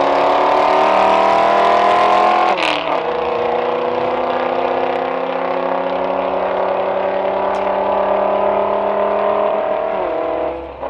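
A car's engine at full throttle on a drag strip run. The pitch climbs, drops sharply at an upshift about two and a half seconds in, then climbs steadily through the next gear until the note drops and fades near the end.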